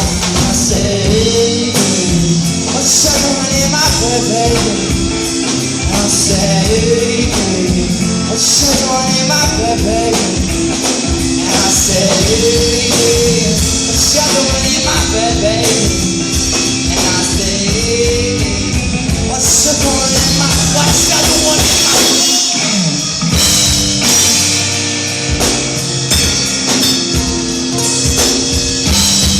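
A live rock band playing a song with drums, bass and a melodic vocal or guitar line. The bass drops out briefly about 22 seconds in, then comes back.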